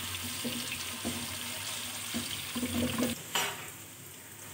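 Ginger-garlic paste sizzling in hot oil in a non-stick wok, with a spatula stirring and scraping against the pan. A little over three seconds in, the stirring ends with one sharp knock, and the sizzle goes on more quietly.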